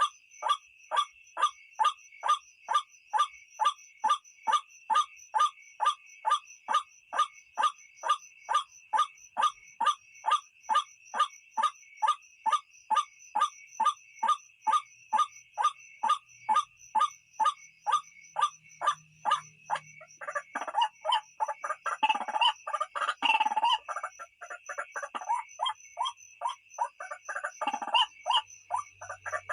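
White-breasted waterhen (ruak-ruak) calling: loud, evenly repeated notes about two a second, breaking at about twenty seconds into a denser, irregular run of overlapping calls. This is the call used to lure the birds at night. A steady high tone runs underneath.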